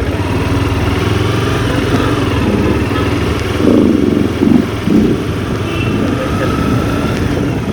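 Motorcycle engine running steadily while riding in traffic, with a few louder bursts about four to five seconds in.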